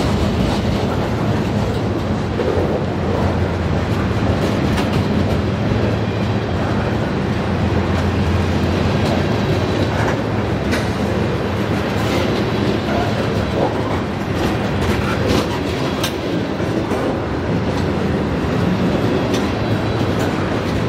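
BNSF freight train rolling past: a steady rumble and low drone of the cars, with wheels clicking over rail joints.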